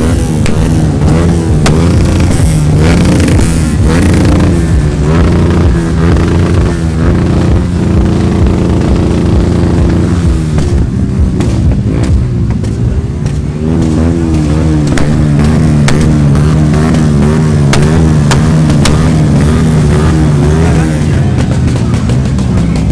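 Motorcycle engines running steadily, mixed with music.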